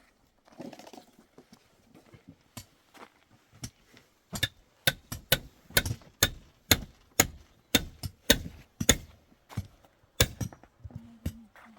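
A series of sharp knocks in a steady rhythm of about two a second, starting softly and growing loud from about four seconds in, then stopping near the end.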